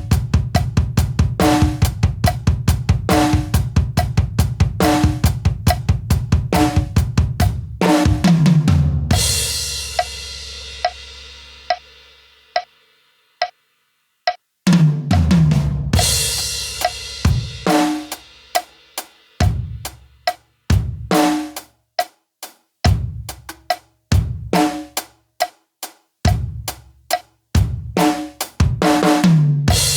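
Drum kit played at a practice tempo of 70 BPM. It opens with a fast, dense run of bass drum strokes under snare and hi-hat for about eight seconds. A cymbal crash then rings out and dies away into a brief near-silence. A second crash brings in a slower groove of kick, snare and hi-hat.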